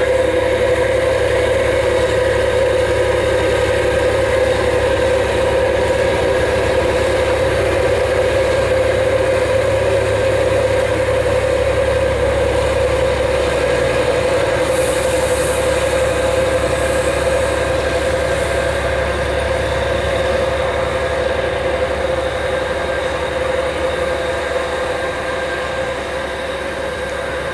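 A train running on the line with a steady humming tone and a rail noise, easing off slightly near the end.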